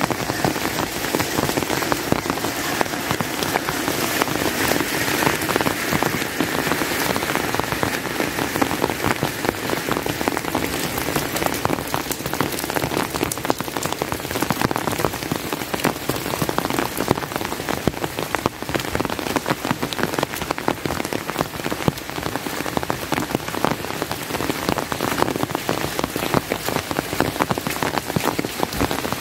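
Steady rain falling, a dense, even patter of many individual drops.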